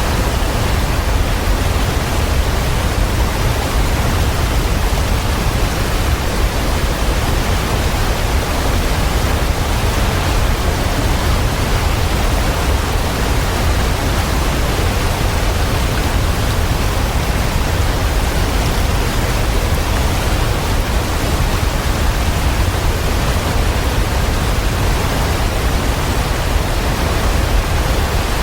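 Waterfall pouring in a steady, unbroken rush of water, heaviest in a deep low rumble.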